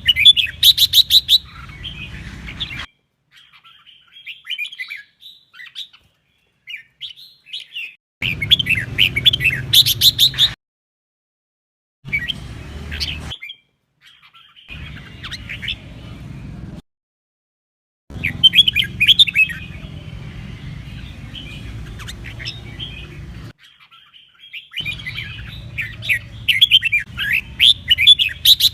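Red-whiskered bulbul singing in bursts of quick, rapidly gliding whistled phrases, broken several times by sudden silences.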